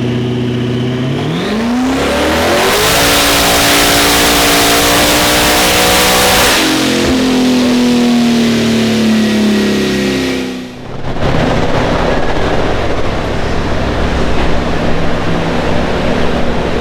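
Twin-turbo Corvette C6 ZR1 V8 making a full-throttle dyno pull in third gear. The engine revs up from idle about a second in and runs loud with a strong rushing hiss, then eases off and cuts out sharply near eleven seconds, leaving a steady rushing noise. The torque converter is unlocked and, by the tuners' reckoning, too loose and slipping.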